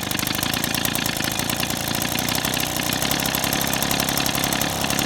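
Echo PB-265L leaf blower's small two-stroke engine idling steadily, with a fast even firing rhythm, its carburettor idle screw turned back up after being set too slow.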